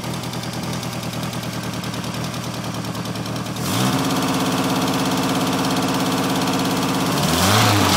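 Turbocharged Mk2 VW Golf's carburetted four-cylinder petrol engine with a tacked-up, leaking exhaust idling with a rough, pulsing note. A little after halfway it picks up to a steady higher speed, then is blipped up and back down near the end.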